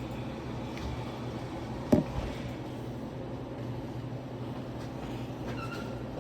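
Steady low hum with one sharp knock about two seconds in, and a brief faint beep near the end.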